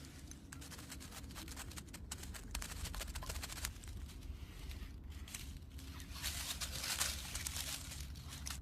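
Dry rustling and crackling made up of many small clicks over a low steady rumble, growing busier twice, in a long stretch early on and again towards the end.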